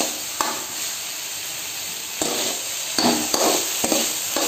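Chopped onions and tomatoes sizzling in oil in a kadai while a spoon stirs them, scraping against the pan a few times, mostly in the second half. The tomatoes are cooking down into a masala base.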